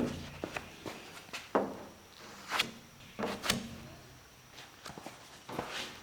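Irregular knocks and clunks, a second or so apart, a few with a short ringing tail, as of objects being handled and set down.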